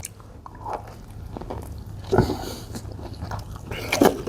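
Close-miked chewing and biting of a foot-long sub sandwich filled with salad, irregular wet mouth sounds with louder smacks about two seconds in and again near the end.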